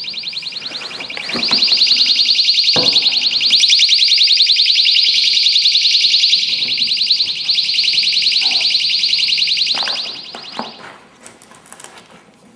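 Personal safety alarm shrieking with a fast, rapidly pulsing high-pitched warble, with a few knocks of handling. It gets louder about a second and a half in, then drops sharply to a faint sound near the end as it is buried in cellulose insulation.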